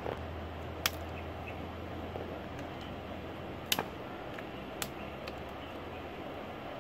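Three sharp clicks, about a second in, near the middle and just after, over a steady background hiss.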